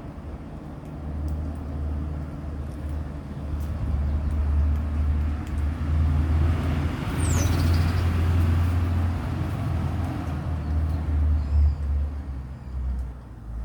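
A road vehicle passing by: a low engine and tyre rumble swells to its loudest around the middle and then fades away.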